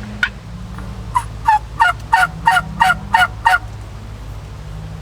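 Wild turkey yelping: a run of about eight evenly spaced yelps, roughly three a second, each note breaking downward in pitch, preceded by one short sharp note just after the start.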